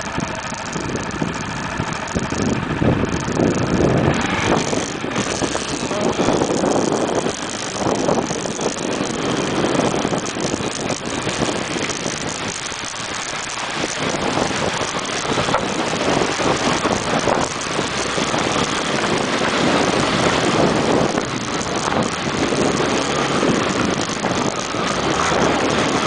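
Motorcycle engine running, its hum clearest in the first few seconds, over a dense rushing noise that swells and ebbs.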